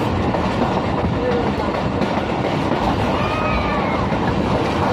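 Passenger train running, a steady rumble of coaches and wheels on the track heard from inside a carriage, with a brief faint high squeal about three seconds in.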